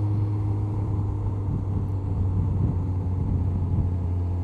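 2002 Honda CBR1100XX Blackbird's inline-four engine running at a steady, even speed at low road speed, under a haze of wind and road noise.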